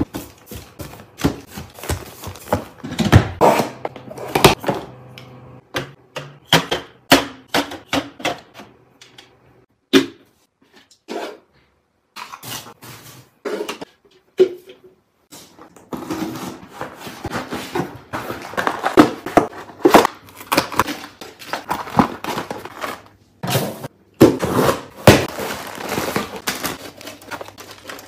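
Close-up handling sounds of packing and organizing: packets and plastic containers picked up, set down and clicked into place, with crinkling between, in irregular taps and knocks. There is a brief lull about ten seconds in.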